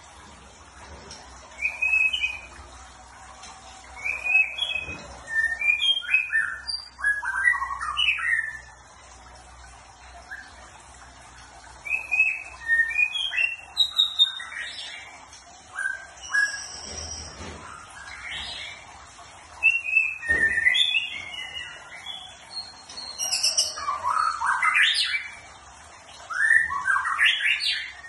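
A songbird chirping and singing in repeated bursts of short, quick notes and warbled phrases, with pauses of a second or two between the bursts.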